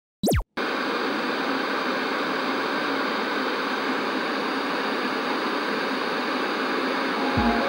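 A short falling sweep, then a steady loud hiss of noise with no clear pitch; deep bass beats of music come in near the end.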